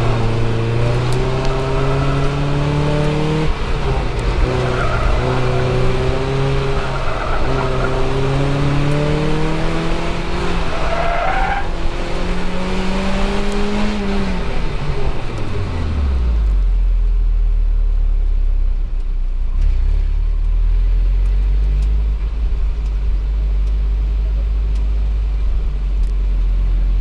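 2004 Mazda Miata's four-cylinder engine pulling through an autocross course, heard from the open cockpit, its pitch climbing and dropping again and again with shifts and lifts between corners. About fourteen seconds in the engine note falls away as the car slows, leaving a steady low rumble as it rolls at low speed.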